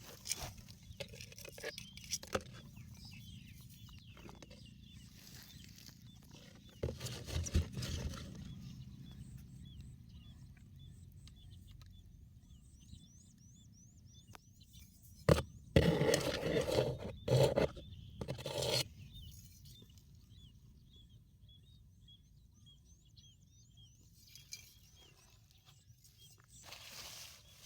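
Faint, rapid high chirping calls repeat in the background, broken by loud rustling and knocking noises about a quarter of the way in and, loudest, just past halfway. A steady low rumble runs underneath.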